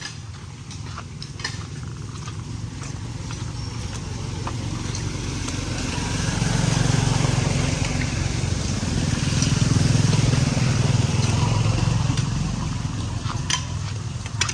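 A motor vehicle's engine drawing near and passing, loudest from about seven to eleven seconds in, then fading.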